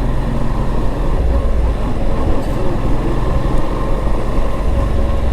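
Motorcycle riding steadily along a road, its engine holding a constant hum under a steady rush of road and wind noise.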